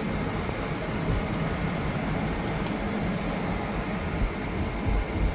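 Steady rumble and rush of a sailboat under way, riding through a large ship's wake, with a few short low thumps near the end as the hull meets the waves.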